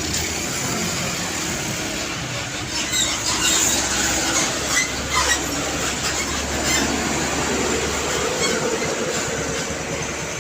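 Heavy vehicle running past with a steady rumble, with a brief high squeal and some clicking around the middle.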